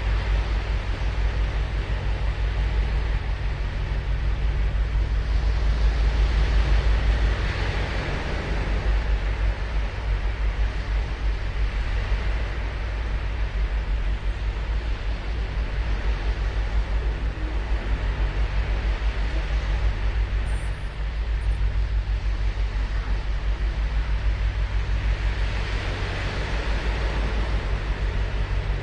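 Ocean surf washing onto a sandy beach: a continuous wash over a deep steady rumble, swelling as waves break every several seconds.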